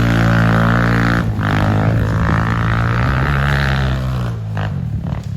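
Pit bike engine running at steady revs with a droning tone, then easing off about four seconds in.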